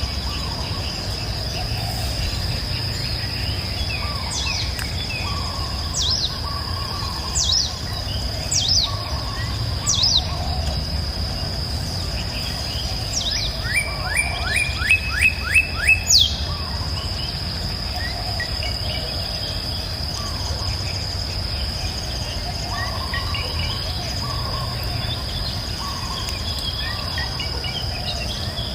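Songbirds singing, with short high whistles that swoop downward, repeated every second or so. About halfway there is a quick run of rapid notes, and softer calls are scattered throughout. Under the birds runs a steady high insect-like buzz and a low steady rush of a river.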